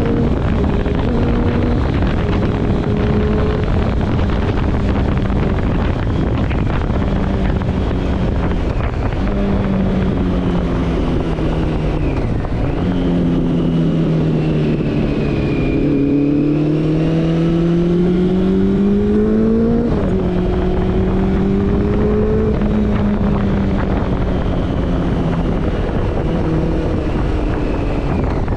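Honda CB400 Super Four's inline-four engine through a Yoshimura slip-on exhaust, heard from the bike while riding, with wind rushing over the microphone. The engine pitch holds and shifts in steps, then climbs steadily for several seconds under acceleration and drops sharply at an upshift about two-thirds of the way through.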